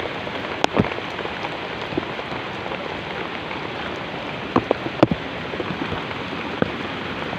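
Steady rain falling, a constant hiss, with a few short sharp knocks about a second in and again around four to five seconds in.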